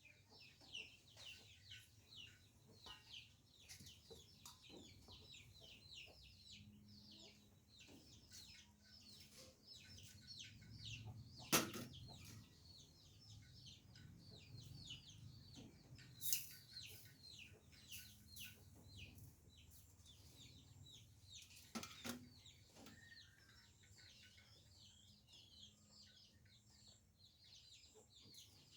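Chickens calling, with many rapid, high peeps throughout. Three sharp knocks, about 11, 16 and 22 seconds in.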